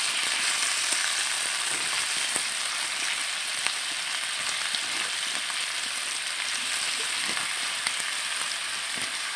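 Sliced bitter gourd and chilli paste sizzling in hot oil in a frying pan, a steady hiss with occasional small pops.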